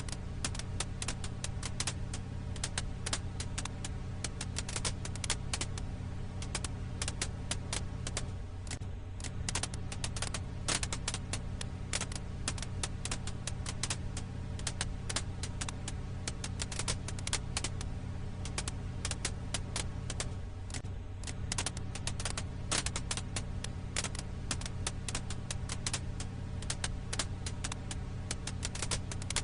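Firewood crackling: a dense, irregular stream of small pops and snaps over a steady low hum.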